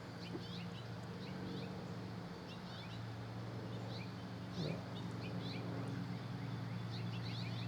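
Small birds chirping in many short high notes, scattered throughout, over a steady low hum.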